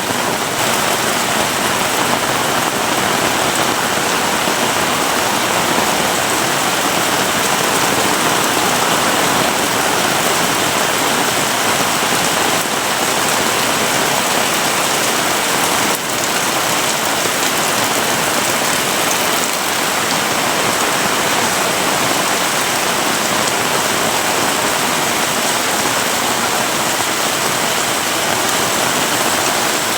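Heavy rain falling steadily, a dense continuous hiss of drops on surfaces.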